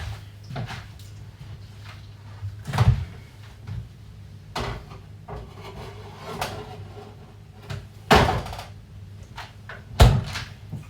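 Kitchen clatter from breakfast being made: a scattering of sharp knocks and bumps, such as cupboard doors and cookware being handled, with the loudest about three, eight and ten seconds in, over a steady low hum.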